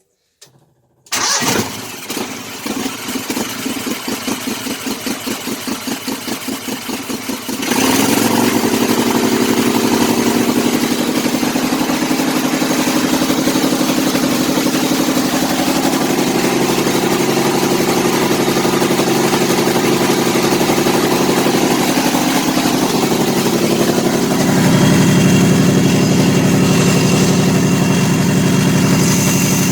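Kohler Command V-twin small engine cranking on its electric starter for about six seconds, then catching and running steadily, louder near the end. The engine is running rich with a rough idle, which the owner puts down to one cylinder bank running extremely rich.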